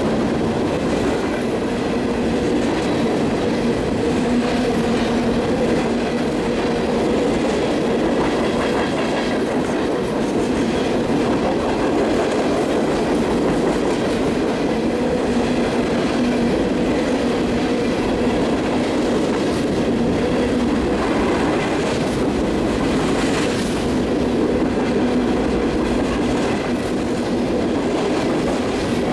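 Refrigerated boxcars of a CSX freight train rolling past close by, a steady, unbroken noise of steel wheels running on the rails.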